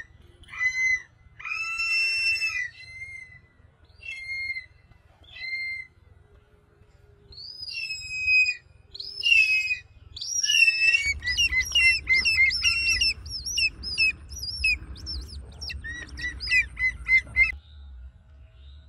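Birds calling: loud whistled calls, some gliding in pitch, every second or two, then from about eleven seconds a quicker, denser run of calls over a low rumble, stopping shortly before the end.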